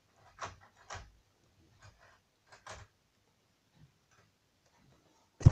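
A few light clicks and knocks of model railway stock being handled and coupled on the track, spaced out over a few seconds, with one loud knock near the end.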